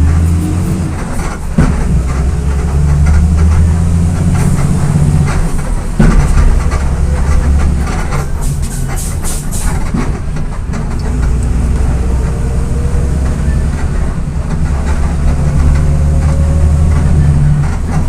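VolksBus 17.230 EOD bus diesel engine pulling under way through its 5-speed gearbox. The engine note dips and picks up again a few times, with a faint rising whine as it gathers speed, over rattling body noise and a few sharp knocks.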